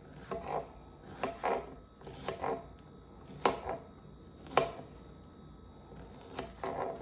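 Irregular series of light, sharp clicks and knocks, about a dozen spread over several seconds, two of them louder than the rest.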